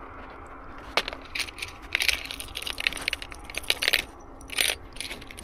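Metal spoon fishing lures clinking and rattling against each other as they are rummaged through and handled, a run of irregular sharp clicks.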